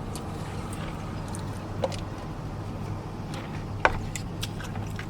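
Steady low hum of a vehicle's cab, its engine running at idle, with two faint clicks about two and four seconds in.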